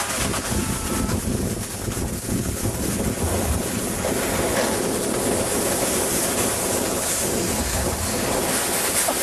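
Wind buffeting the microphone: a steady, loud rushing noise with a low rumble underneath.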